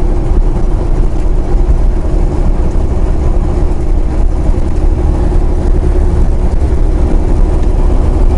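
Semi truck's diesel engine and road noise, a loud, steady low drone with a constant hum, heard from inside the cab while driving.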